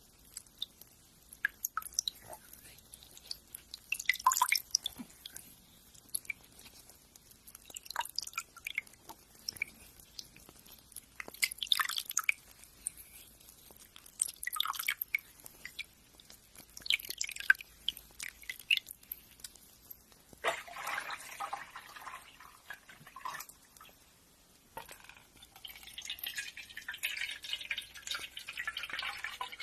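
Fingernails being ground down: short irregular scratchy strokes and clicks, then longer stretches of steady rasping from about two-thirds of the way in.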